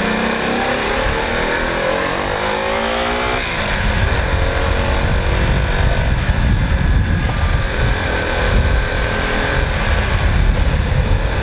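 Motorcycle engine accelerating, its pitch rising for about three seconds, then dropping sharply at a gear change and running on at a steadier speed, with wind buffeting the microphone.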